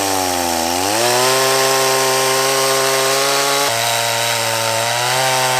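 Handheld chainsaw running at high revs while cutting wood. Its engine note sags under load in the first second, then picks back up and holds steady, with an abrupt shift in the sound a little past halfway.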